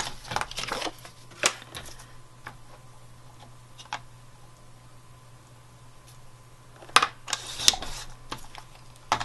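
Paper being trimmed and handled at a craft table: a series of sharp cutting snips and short paper rustles, bunched at the start and again about seven seconds in, with a faint steady hum underneath.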